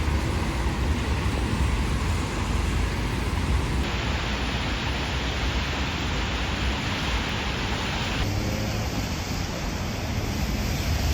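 Steady rumbling running noise of a vehicle in motion, heavy in the lows, changing abruptly twice.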